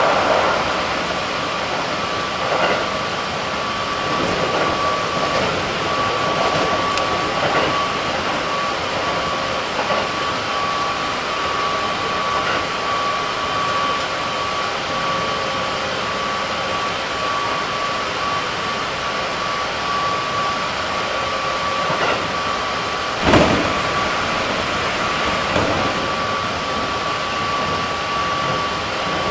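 Keikyu 1700 series electric train with a Toyo GTO-VVVF traction inverter running at a steady speed: wheel-on-rail rumble under a steady high whine from the traction drive. A single sharp knock comes about 23 seconds in.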